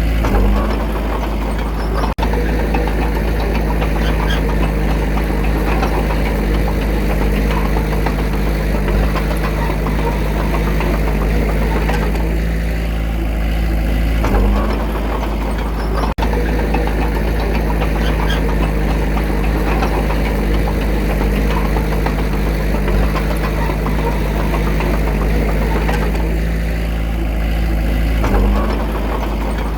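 Diesel engine of a D21A crawler bulldozer running steadily at work, its note changing briefly about halfway through and again near the end.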